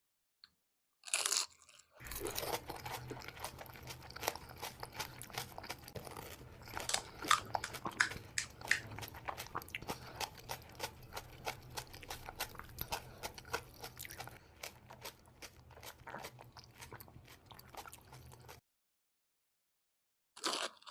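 Close-up eating of pani puri: a loud crunching bite into the crisp hollow puri shell about a second in, then continuous wet, crunchy chewing full of small crackles until it stops abruptly a couple of seconds before the end. Another crunching bite starts right at the end.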